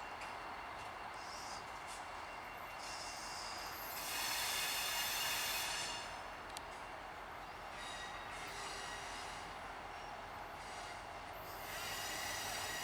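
Freight train cars rolling slowly out of a siding with a steady rumble, their wheels squealing against the rail several times. The loudest squeal comes about four seconds in, and another near the end.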